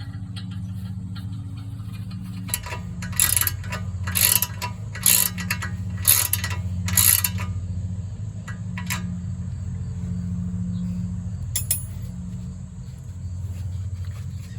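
Castle nut being tightened onto a new tie rod end's stud with a wrench: five short runs of metallic clicking about a second apart, then a single click later on. A steady low hum runs underneath.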